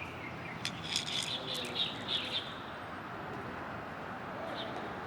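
Birds chirping in a quick run of short high calls for a second or two, over a steady outdoor background hiss.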